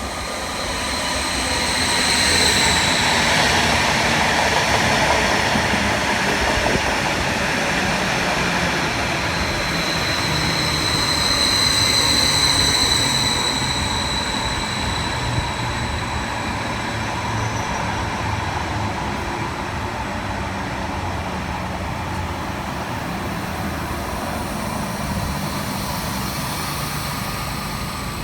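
Train running through the station, its rumble building over the first few seconds and then fading off slowly. High thin squealing tones sound over it, drifting slightly down in pitch midway.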